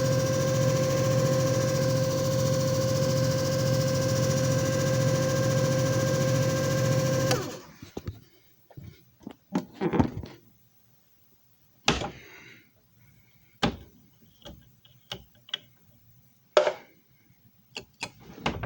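JFJ Easy Pro disc repair machine running with a steady motor hum and whine, cutting off suddenly about seven and a half seconds in. A series of separate sharp clicks and knocks follows.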